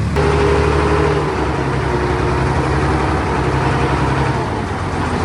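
Diesel engine of heavy earthmoving machinery running steadily, with a slight shift in its pitch about a second in.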